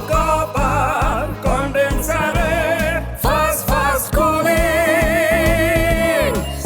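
Advertising jingle: a sung melody over a pop music backing, ending on a long held note with a wavering vibrato that drops away just before the end.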